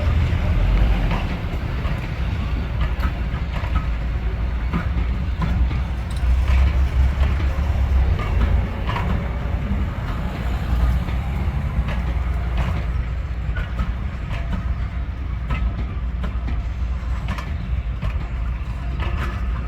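Diesel-hauled heritage train running: a steady low rumble, with wheels clicking irregularly over rail joints.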